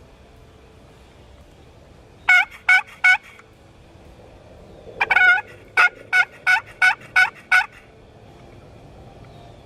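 Turkey yelps: a run of three short notes, then after a pause a longer note followed by six more, evenly spaced about three a second.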